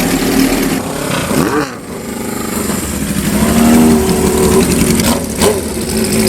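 Classic motorcycle engine idling through its exhaust and blipped with short revs a few times, each rising and dropping back to idle.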